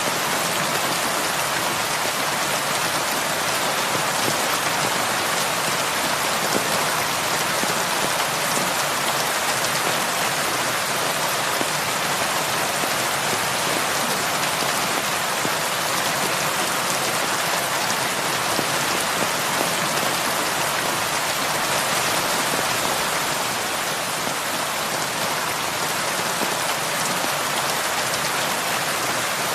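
Heavy rain falling steadily, a dense, even hiss of drops on a surface with no breaks or changes.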